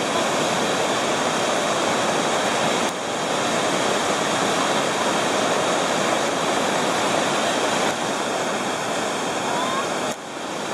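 Steady rush of water falling and sliding over rock at a waterfall, dipping briefly about three seconds in and again near the end.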